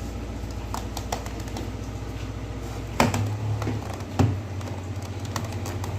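Small clicks and taps of screws and a screwdriver being worked on the plastic back cover of an LED TV, with two louder knocks about three and four seconds in, over a steady low hum.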